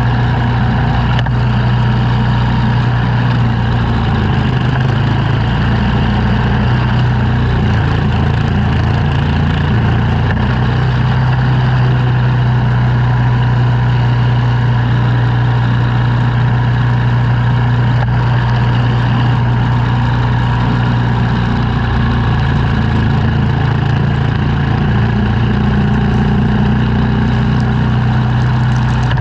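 Engine of snow-clearing equipment running steadily at a constant speed, a strong even hum with no breaks.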